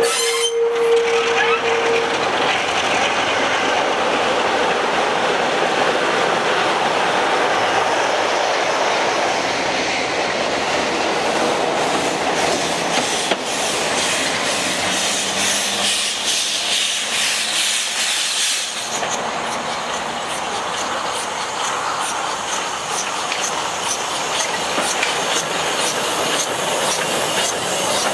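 A Class 45 diesel locomotive's horn note ends about two seconds in, and the locomotive runs close past with its wheels clattering over the rail joints. A small 0-4-0 saddle-tank steam locomotive then draws up alongside, its cylinders hissing steam, with light clicking from its wheels near the end.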